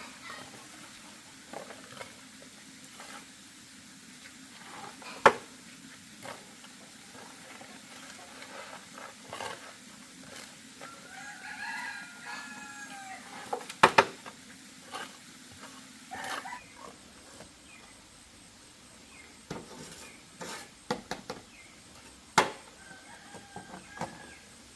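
A rooster crows once, about halfway through, among scattered sharp knocks and clatters; the loudest knocks come about a fifth of the way in, just after the crow, and near the end.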